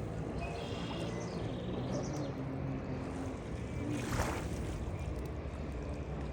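Waterside ambience: wind and water noise, with a broad swish about four seconds in and a faint steady low hum underneath.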